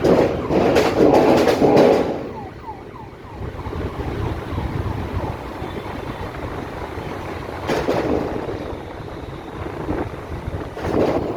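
Traffic noise from passing vehicles, loudest in the first two seconds, with an emergency siren's rapid yelp fading out about two seconds in. More vehicles pass about eight and eleven seconds in over a steady rumble.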